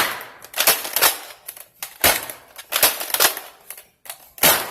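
Nerf Longshot spring-powered blaster being cocked and fired: a series of sharp plastic clacks and snaps, bunched in groups about a second apart.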